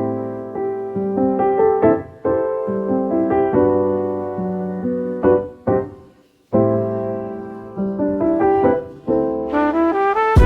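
Background music: solo piano playing slow chords and melody notes, with a short break about six seconds in and a rising run of notes near the end.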